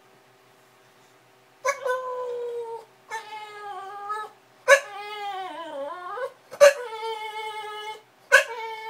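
Bulldog whining: five long, high-pitched whimpering cries, starting about a second and a half in, each beginning sharply and wavering or sliding down in pitch.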